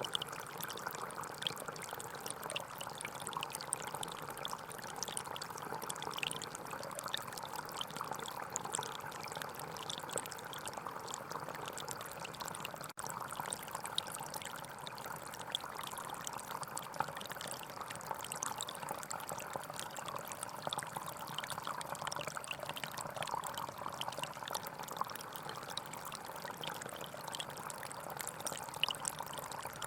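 Gentle forest stream flowing steadily, its water trickling and splashing, with a brief dip in the sound about thirteen seconds in.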